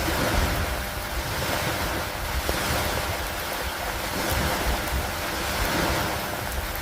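Steady rain falling, mixed with gusty wind rumbling on the microphone, with a few faint drop ticks.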